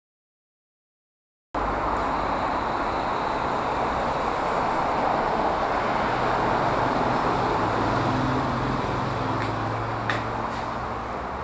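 Silence, then about a second and a half in, steady road traffic noise starts abruptly, with a vehicle's engine hum growing a little louder partway through and a single click near the end.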